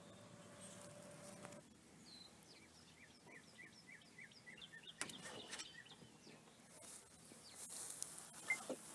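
Faint room tone with a steady hum that stops about a second and a half in, then a bird's quick run of short, falling chirps.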